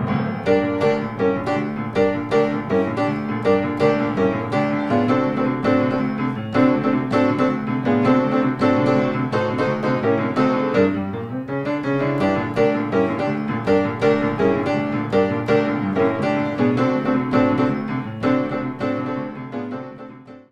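Background piano music with a steady run of notes, fading out near the end.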